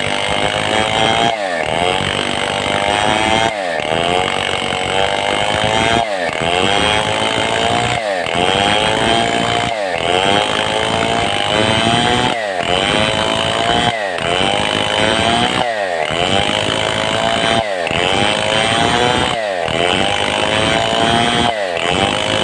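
Stihl 070 two-stroke chainsaw running under load while cutting a mahogany log into boards, its engine pitch dropping sharply and climbing back again about every two seconds.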